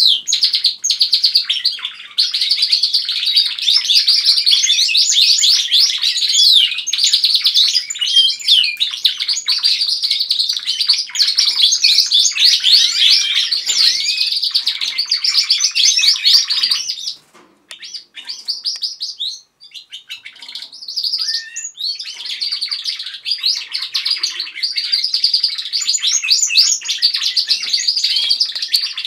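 Several domestic canaries singing together: fast, continuous trills and warbling phrases. The song breaks off for a few seconds a little past the middle, then picks up again.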